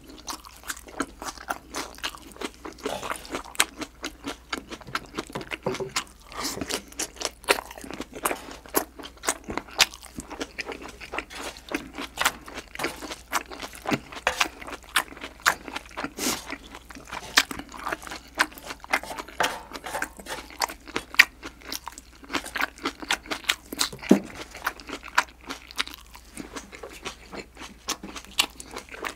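Close-miked chewing and crunching of spicy green-onion salad and thin-sliced pork belly: a steady run of short crunches and mouth clicks.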